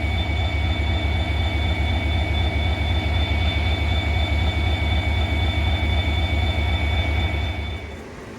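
Diesel locomotive engine running with a heavy, rapid low throb and a steady high whine above it, dropping away sharply about eight seconds in.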